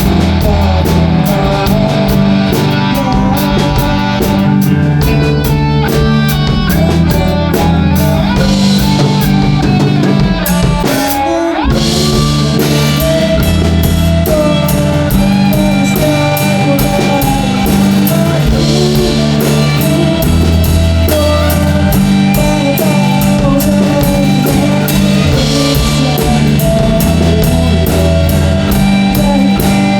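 Rock music played on drum kit and guitar, with a steady drum beat and a short break in the low end about eleven seconds in.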